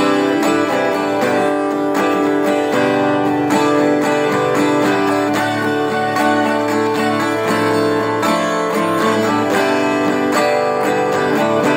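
Acoustic guitar played steadily, strumming and picking through D, C and G chords in a light, whimsical instrumental.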